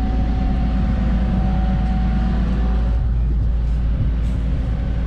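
Diesel engine of compact earthmoving equipment running steadily close by, with a faint high whine for the first two and a half seconds.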